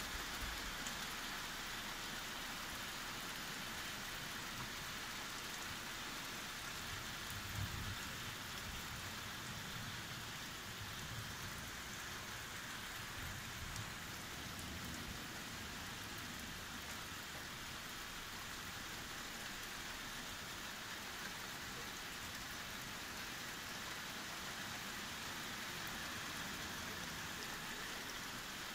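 Steady rain falling in a thunderstorm, with a faint low rumble of distant thunder around a quarter to half of the way through.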